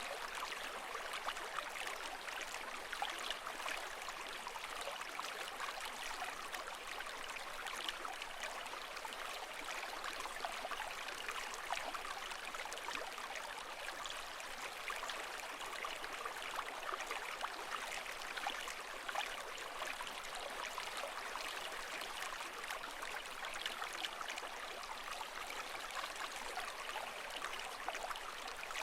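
Continuous running water: a steady, fine trickling and bubbling flow with no rise and fall of breaking waves.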